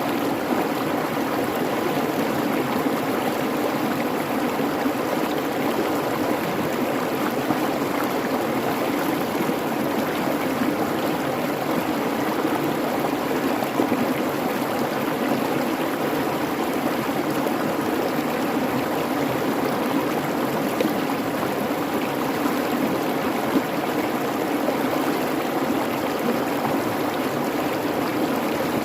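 Creek babbling, a steady, even rush of flowing water.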